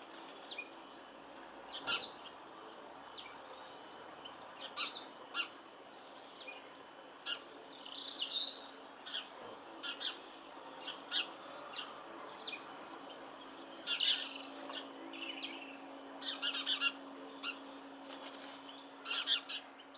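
Small garden songbirds calling: many short, sharp chirps at irregular intervals, with a brief busier flurry of calls about two-thirds of the way through.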